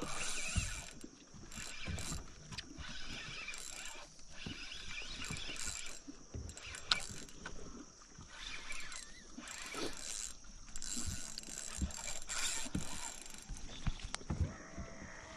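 Fishing reel being cranked in stop-start bursts, its gears whirring and clicking as a red drum is reeled in.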